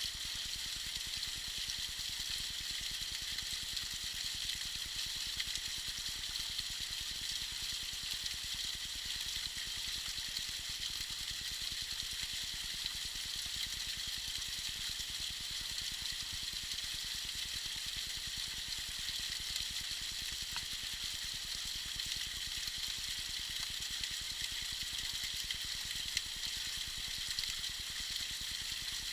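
Small waterfall trickling and splashing: a steady, even high hiss of falling water.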